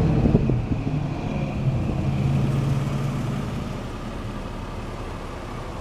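Electric motor of a power car seat running with a steady hum, with a few clicks in the first second, then stopping after about three and a half seconds.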